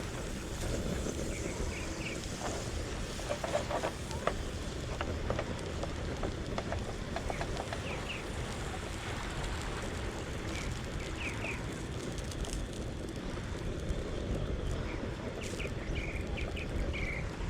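Fish fillet frying in butter in a pan on a portable stove, a steady sizzle under wind noise on the microphone, with short bird chirps now and then.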